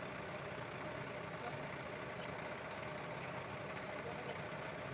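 A motor engine running steadily at idle, with a few faint clinks in the second half.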